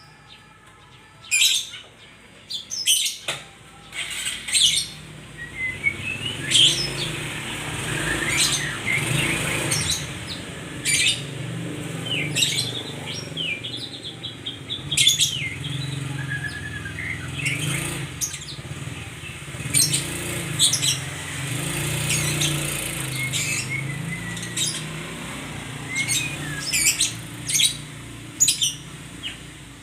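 A murai songbird (Copsychus) calling and singing: sharp repeated calls mixed with short whistled phrases, some gliding up and down. A steady low hum runs underneath from about six seconds in until near the end.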